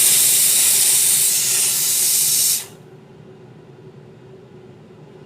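A loud, steady hiss of a jet of steam or air that cuts off suddenly about two and a half seconds in, leaving a faint steady hum.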